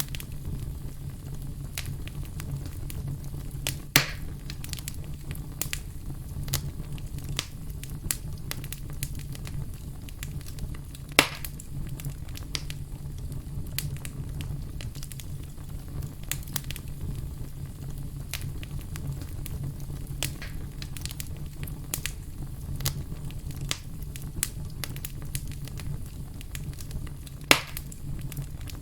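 Wood fire burning in a fireplace: a steady low rumble under scattered crackles and snaps. Three sharp pops stand out, near 4 seconds, near 11 seconds and near the end.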